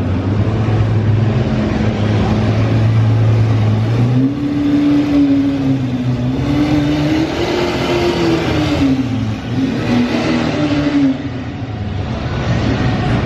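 Car engine running with a steady low note, then revved up and down several times from about four seconds in, settling shortly before the end.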